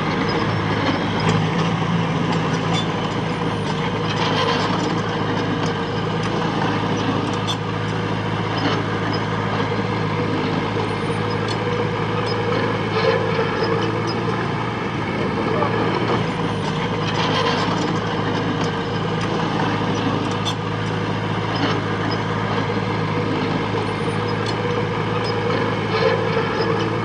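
Diesel engine of heavy earthmoving machinery running steadily under work, with scattered short clanks and knocks.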